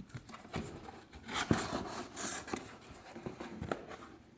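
Cardboard shipping box being handled: scraping and rustling with scattered clicks and knocks, the loudest knock about a second and a half in.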